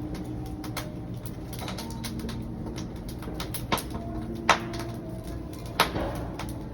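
Burning firewood crackling, with many small irregular pops and a few louder snaps, loudest about four and a half seconds in.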